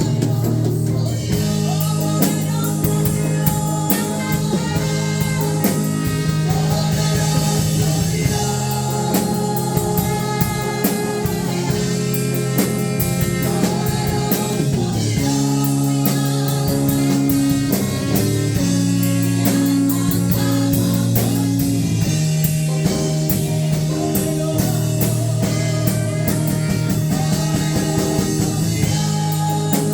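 Live worship band music: electric guitar and bass holding sustained chords over a steady drum kit beat, the bass notes changing every few seconds.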